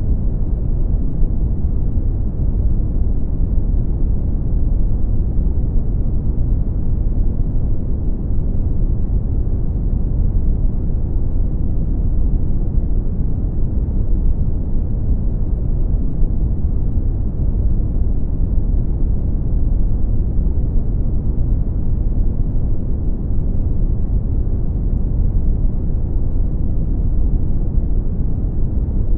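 Brown noise: a steady, deep rumbling hiss with its energy weighted toward the low end and almost nothing high, unchanging in level.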